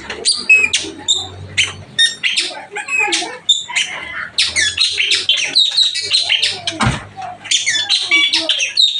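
Birds chirping and twittering in a quick, dense run of short high notes with some slurred calls.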